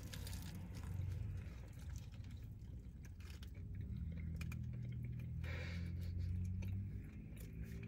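Faint chewing of a large bite of a pretzel-bun bacon cheeseburger, with light rustles of its foil wrapper, over a low steady hum that grows stronger about halfway through.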